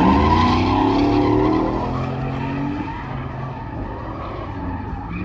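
Truck engine revving hard during a burnout, with tires spinning and squealing against the pavement. It is loudest at first and eases off about two seconds in.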